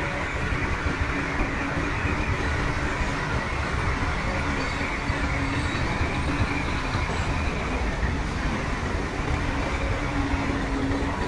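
Crawler bulldozer's diesel engine running steadily, with the machinery noise of the dozer at work.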